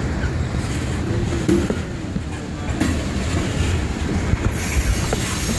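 CSX tank-car train creeping past at a crawl: a steady low rumble of rolling wheels, with irregular clunks over the rail joints and a few short, faint squeaks.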